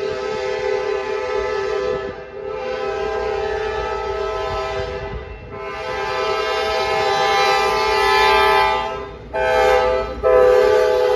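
Train horn sounding a chord in long blasts: long, long, short, long, the grade-crossing warning pattern.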